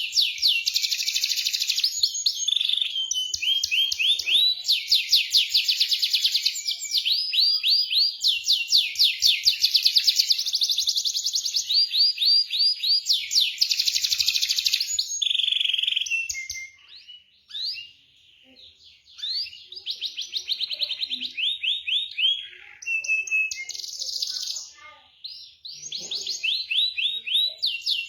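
Domestic canary singing a long, fast song of rolling trills, each a rapid run of repeated high notes, with short pauses about two-thirds of the way through.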